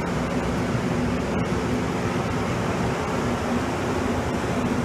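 MBTA commuter rail train starting to pull out of the platform, its coaches rolling past. Steady rumble with a constant low hum.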